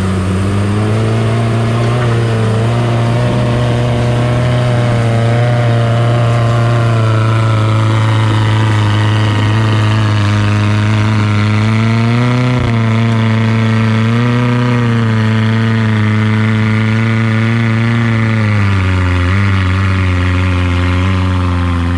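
Off-road 4x4 vehicle's engine running loud at steady revs, its pitch swelling and easing a little, then dropping about nineteen seconds in.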